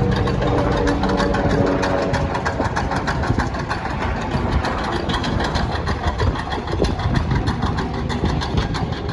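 A train passing over a level crossing: a low rumble under a rapid, steady clatter of sharp clicks.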